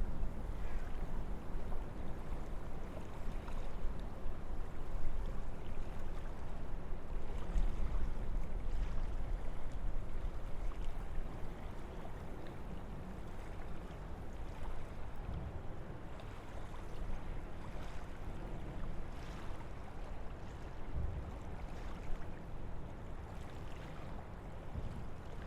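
Wind blowing through forest trees: a steady rushing with a low rumble, a little stronger in the first half and easing about halfway through.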